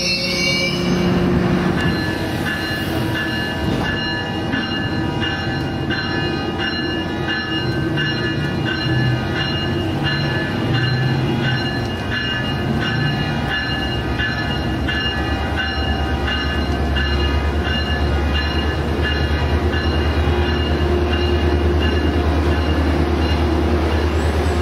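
Bilevel passenger train at the platform with its diesel locomotive running, over a regular high ringing. About two-thirds of the way in, the low engine rumble grows louder.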